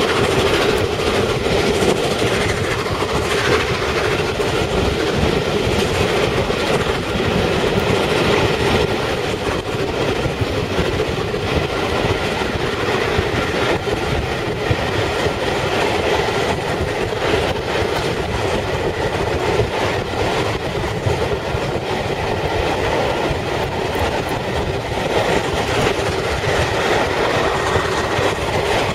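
Steam-hauled passenger train running along the line, heard from an open carriage window: a steady loud rush of running noise with the clickety-clack of wheels over the rails.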